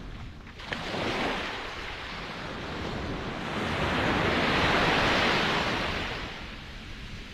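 Ocean waves breaking and washing on a shore, one wave swelling to its loudest about halfway through and then easing, with low wind rumble on the microphone.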